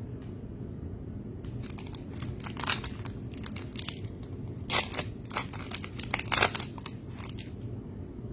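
Trading cards and their packaging being handled: a few seconds of irregular crinkles and sharp snaps, loudest near the middle and near the end, over a steady low hum.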